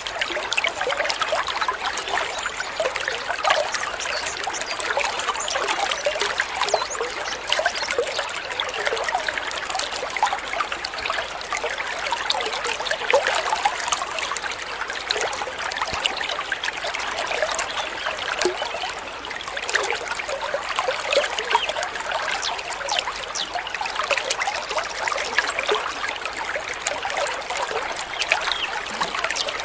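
Water trickling and babbling steadily in a small stream, a continuous splashing with many tiny bubbling flecks.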